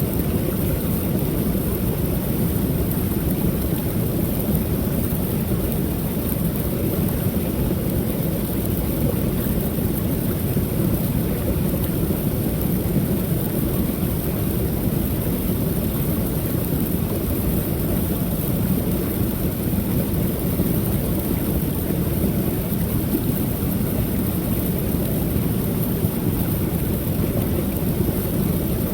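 Waterfall on a creek: a steady, deep rush of falling water with no breaks or changes.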